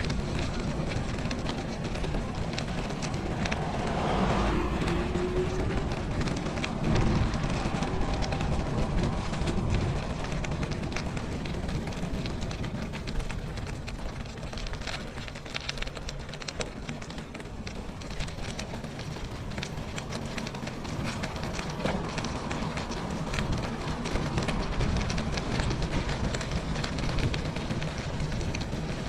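Bicycle riding noise on a winter trail: a steady rushing rumble with many small clicks and rattles throughout.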